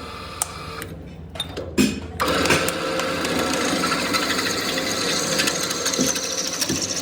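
A few knocks, then a workshop power tool starts about two seconds in and runs steadily.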